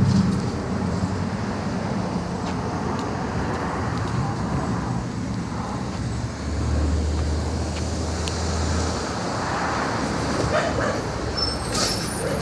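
Garbage truck engine running with a steady low drone over street traffic noise. A dog barks near the end.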